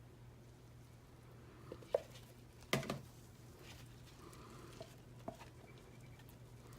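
A few light clicks and knocks of soapmaking cups and utensils being handled, the loudest about three seconds in, over a faint steady hum.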